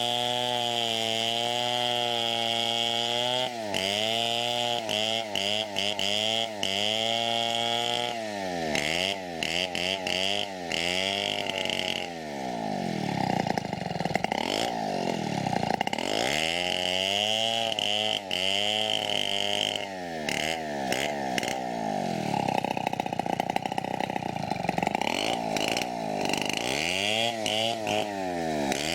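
Two-stroke chainsaw ripping along a teak log. The engine runs steadily at high speed for the first few seconds, then its pitch keeps dropping and rising again as the chain bogs in the cut and recovers.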